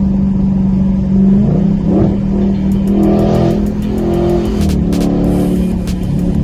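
Straight-piped Dodge Challenger Scat Pack's 6.4-litre HEMI V8 running loud at idle through an exhaust with no mufflers, with brief rises in pitch from light revs, and a few sharp clicks in the second half.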